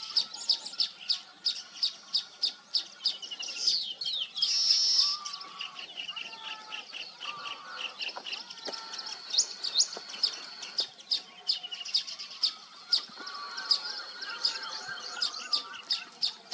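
Weaver birds at a nesting colony chattering: many rapid, overlapping chirps, with a brief buzzy call about five seconds in and a thin, steady high note through the second half.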